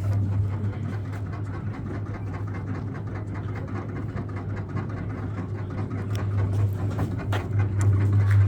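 A steady low hum with a faint background noise bed and scattered light clicks, growing louder near the end.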